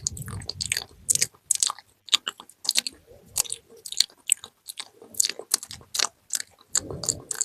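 ASMR mouth sounds close to the microphone: a fast, irregular run of wet clicks and pops. Low muffled rustles come at the start and again near the end.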